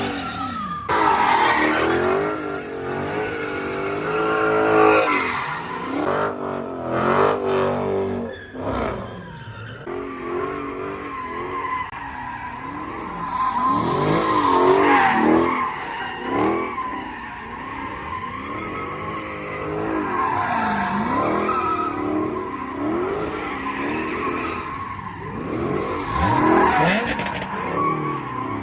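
Car drifting or doing donuts: the engine revs up and down over and over in rising and falling sweeps while the tyres squeal on the pavement.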